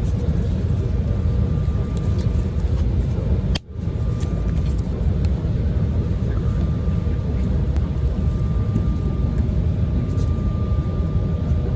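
Jet airliner cabin noise: the steady rumble of the engines and airflow heard from inside the cabin, with a faint steady whine, briefly cut off a little before the four-second mark.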